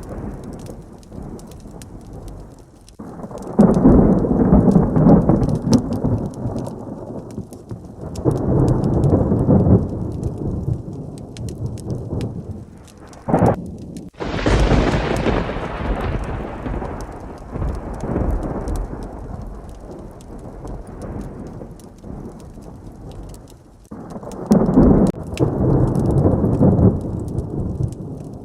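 Thunderstorm: rolling thunder rumbles over steady heavy rain, with a sharp crack and a loud thunderclap about halfway through that fades off slowly over several seconds, then more low rumbling near the end.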